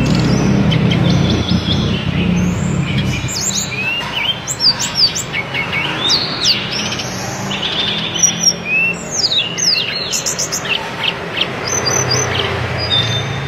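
A tledekan gunung blue flycatcher singing loudly in quick, varied chirps, sweeping notes and short trills. A low hum runs under the first few seconds.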